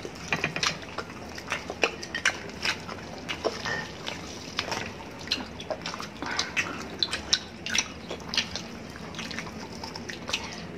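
Several people chewing and smacking their lips on spit-roasted chicken eaten by hand: a run of irregular wet clicks and smacks.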